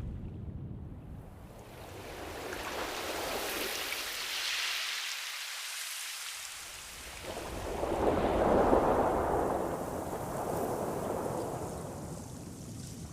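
Ocean waves surging and washing back, two swells about 4 and 8.5 seconds in, the second the louder.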